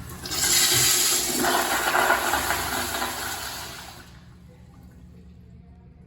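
A toilet flushing: a loud, hissing rush of water that starts abruptly, holds for about three and a half seconds and dies away.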